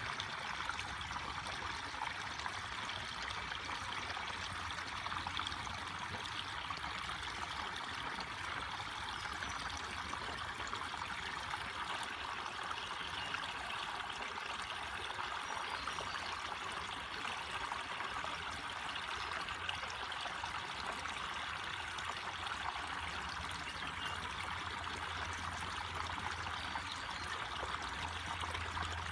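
Forest stream running over rocks, a steady trickling and burbling of water with a faint low hum underneath.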